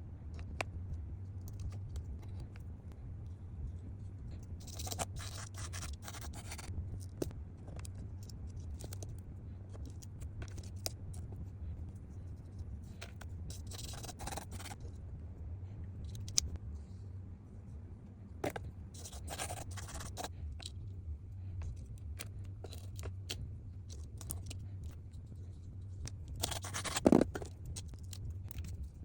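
Scraping and rustling from hands working a sand-painting board, with four louder scraping stretches of a second or so spread through, over a steady low hum.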